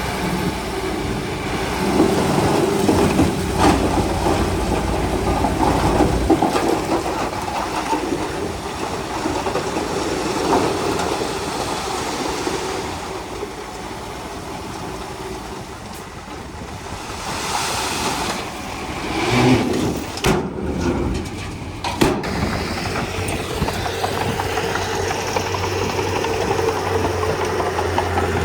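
Komatsu D31P bulldozer's diesel engine running as it works, its pitch and strength rising and falling with the load, with a few sharp knocks along the way.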